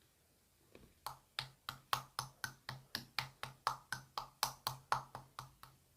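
A quick, even run of about eighteen short sharp clicks, roughly three to four a second, starting just under a second in and stopping shortly before the end.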